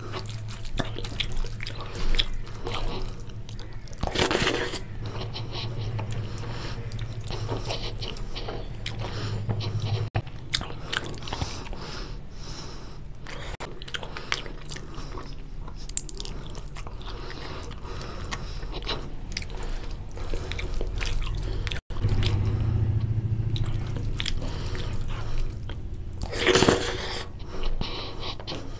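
Close-up eating sounds of mutton curry and goat trotters with rice: continuous chewing and biting with many small wet clicks, and louder bites about four seconds in and again near the end.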